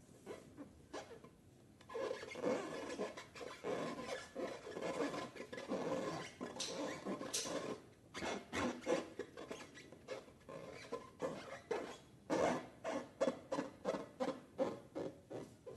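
Hands working slime, with rubbing and squishing. About halfway through, the continuous rubbing gives way to separate short squishes, which become a quick regular run of about three a second near the end.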